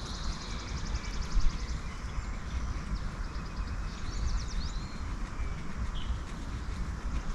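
Backyard songbirds singing, with a rapid high trill of evenly repeated notes in the first second and a half and a few quick whistled glides near the middle. A steady low rumble runs underneath, with a brief low thud about a second and a half in.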